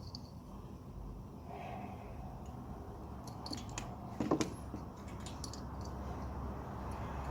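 Light clicks and small knocks of hands handling parts and tools, the loudest about four seconds in, over a low steady hum.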